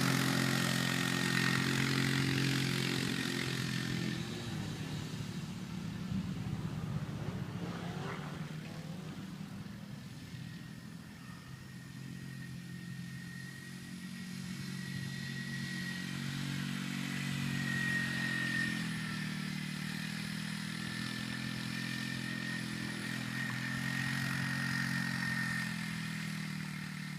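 A small engine running steadily with a thin high whine over it. It eases off from about four seconds in, is lowest around eleven seconds, then picks up again and holds.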